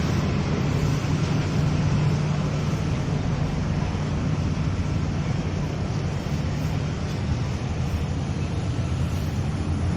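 Steady low rumble of passing vehicle traffic, with a continuous hum underneath.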